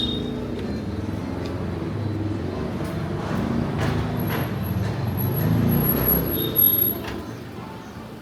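Motor vehicle passing close in a street. The engine rumble swells about two-thirds of the way in and fades near the end, with a brief high-pitched tone as it passes.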